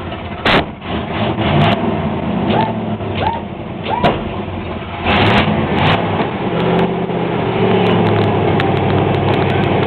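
Chevrolet Caprice engine running, with a few brief rises and falls in pitch as it is revved, and scattered sharp clicks. It gets louder about five seconds in.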